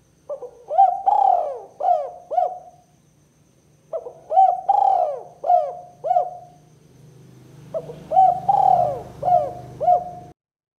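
Spotted dove (tekukur) cooing: three phrases of about five coos each, a few seconds apart, in its two-note 'kuk 2' call, with a faint low hum underneath. The sound cuts off abruptly near the end.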